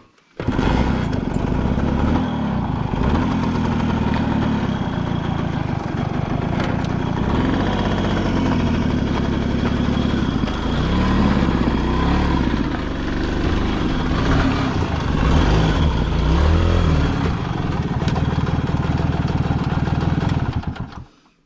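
Suzuki K90's 90cc two-stroke single-cylinder engine running, blipped up and down in revs a few times. It comes in suddenly about half a second in and cuts off shortly before the end.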